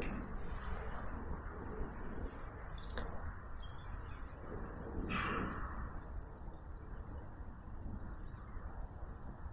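Small woodland birds chirping in short, high calls scattered through, with a brief rustle a little past the middle over a steady low rumble.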